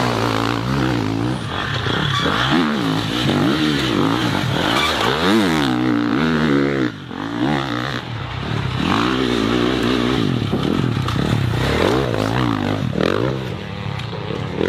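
Off-road racing motorcycle engine being ridden hard, revving up and falling back again and again, with a brief drop in level about seven seconds in.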